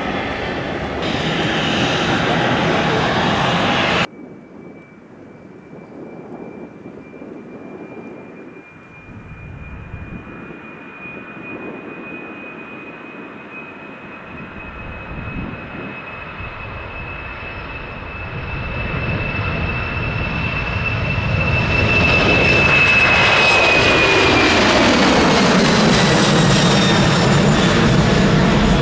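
Jet airliner flying past. Its engine whine grows steadily louder for about twenty seconds, then drops in pitch as the aircraft passes near the end, with a rising rumble. Before that, a loud steady engine noise cuts off abruptly about four seconds in.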